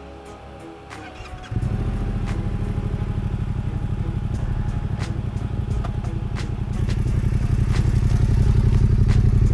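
Yamaha Ténéré 700 motorcycle's parallel-twin engine running, starting about a second and a half in, growing louder toward the end and cutting off suddenly. Background music with a steady beat plays throughout.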